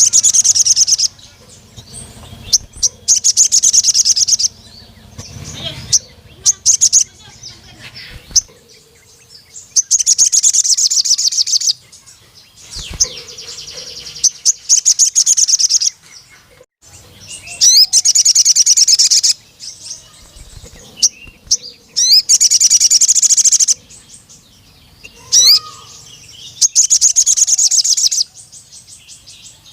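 Male sogon sunbird singing: about seven loud bursts of very rapid, high-pitched chattering trills, each lasting around two seconds, with short chirps in the gaps between them.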